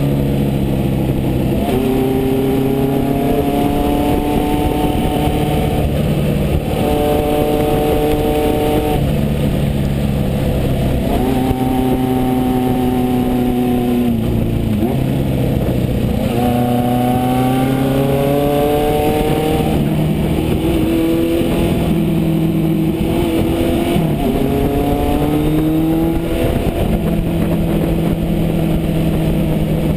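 1974 Honda CB550 Four's air-cooled inline-four running through an aftermarket MotoGP Werks exhaust while riding. The engine pulls up through the revs and drops back at each gear change, several times over, with stretches of steady cruising between.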